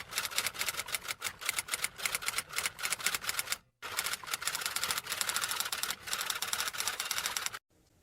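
Rapid clattering typing clicks, like a typewriter, in two long runs with a brief break just under four seconds in, stopping just before the end.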